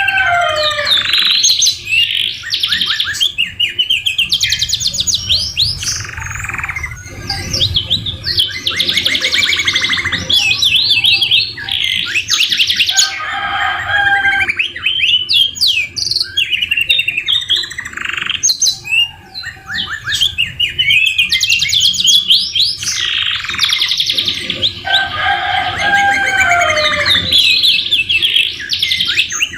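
Domestic canary singing a long, continuous song of rapid trills, rolls and sliding whistles, with phrases copied from the white-rumped shama worked into it.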